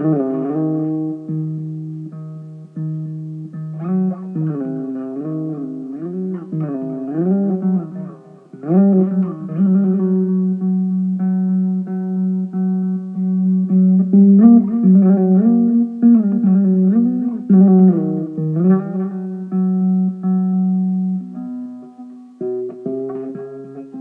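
Instrumental electric mandolin music: long sustained notes with wavering, sliding pitch bends in the melody over held lower notes.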